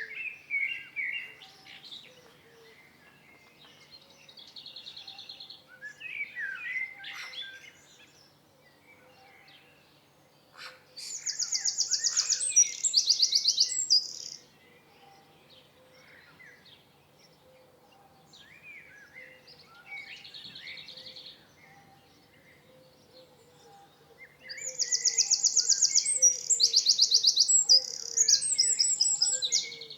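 Songbirds singing: twice a loud, high song of rapid repeated notes lasting about three to four seconds, with softer warbling chirps in between.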